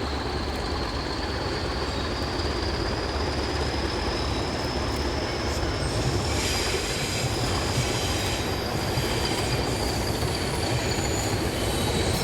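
Avanti West Coast Pendolino electric train arriving at the platform: a rumble of wheels with a thin high squeal that rises a little and then sinks back, getting noisier about halfway through.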